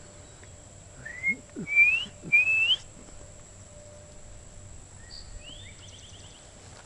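A person whistling three clear, rising notes, answered about two seconds later by a fainter bird call: a short rising note followed by a quick run of rising notes.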